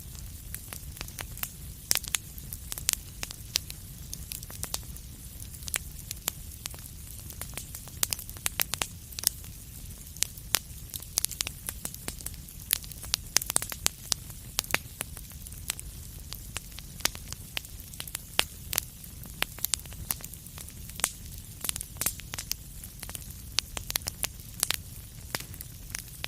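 Wood fire burning in a fireplace: a steady low rumble and hiss with frequent sharp, irregular crackles and pops, several a second.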